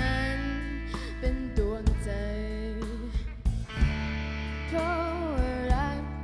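A live pop band playing an instrumental passage: drums, bass and guitar, with held chords and a melody line that slides up and down in pitch about five seconds in.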